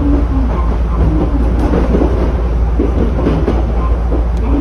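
Chichibu Railway 7500 series electric train running between stations, heard from inside the car: a steady, loud rumble of wheels and running gear with wavering motor tones. The track here is continuous welded rail, so there is no regular clickety-clack of rail joints.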